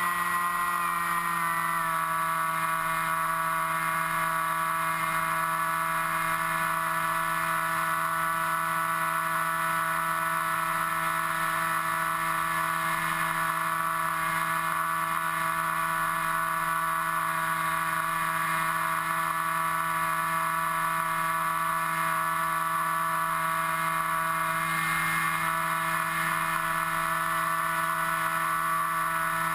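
Motor and propeller of an FPV model aircraft running steadily, heard from the onboard GoPro as a whine of several steady tones. The pitch eases down slightly in the first couple of seconds and wavers briefly near the end.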